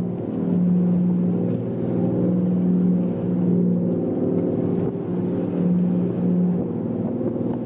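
Steady low machinery drone with a strong hum that swells and dips every second or so.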